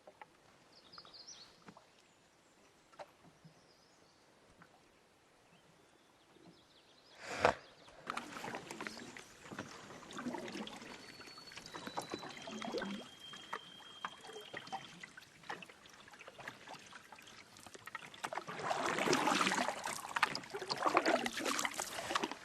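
Canoe paddling: a paddle knocks once against the hull, then water splashes and drips with each stroke, louder near the end. Before the knock it is quiet apart from a few faint bird chirps.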